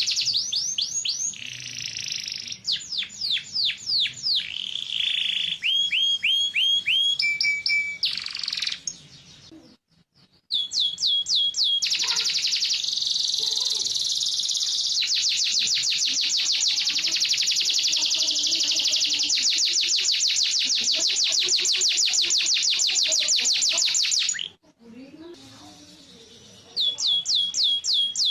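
Domestic canary singing in fast rolling trills, each a rapid run of the same high note repeated, switching from one tour to the next. The song breaks off briefly twice, about ten seconds in and again about twenty-five seconds in.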